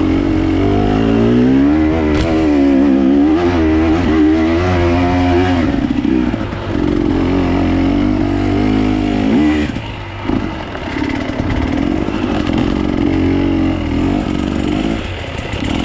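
Enduro dirt bike engine being ridden, revving up and down over and over as the throttle is worked, easing off briefly about ten seconds in before picking up again.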